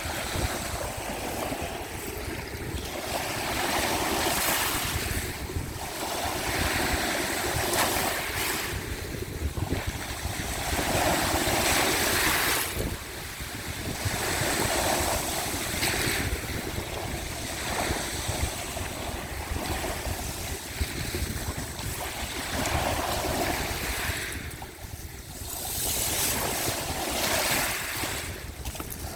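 Sea waves washing onto the shore, the rush swelling and ebbing every few seconds, with wind rumbling on the microphone.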